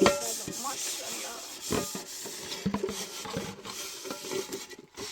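Steady scraping and rubbing on a surface, with scattered light knocks.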